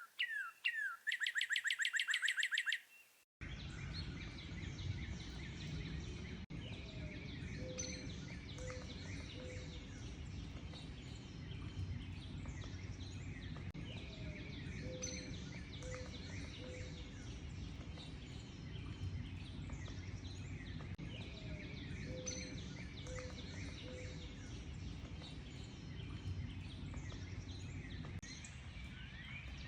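A loud bird song of rapid, evenly repeated notes, which cuts off abruptly about three seconds in. A chorus of many small birds chirping and twittering follows, over a steady low background rumble. Through it a low three-note call repeats about every seven seconds.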